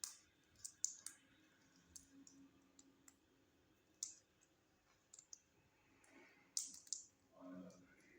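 A parrot making scattered sharp clicks, about a dozen at irregular intervals, with a faint softer sound about seven and a half seconds in.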